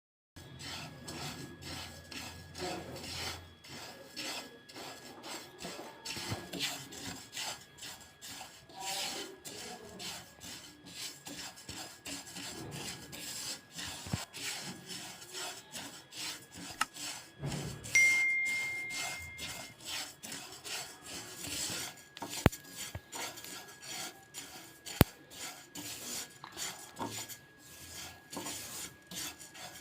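A spatula stirring and scraping sesame seeds around a pan: an uneven, continuous run of rasping strokes. A short high tone sounds about two-thirds of the way through, followed by two sharp clicks.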